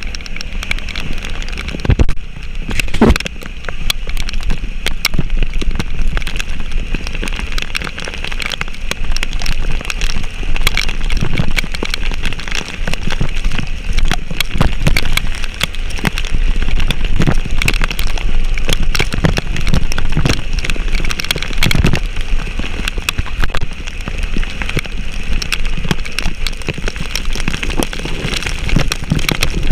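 A vehicle travelling in heavy rain: a steady low engine and road rumble under the hiss of rain, with many small irregular clicks and knocks throughout.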